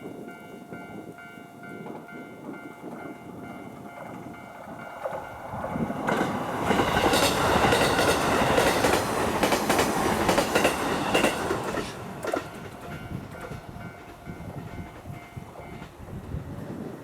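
Level-crossing warning bell ringing in a steady repeating pulse while a JR Mito Line train passes, loudest for about six seconds in the middle with the clatter of its wheels over the rail joints. The bell stops near the end once the train has gone by.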